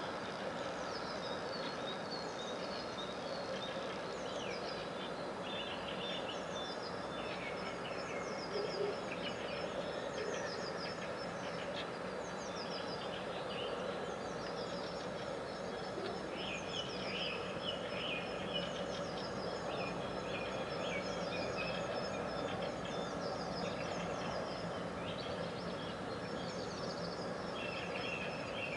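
Several songbirds singing in spring, with short chirps and trills overlapping throughout, over a steady background hum.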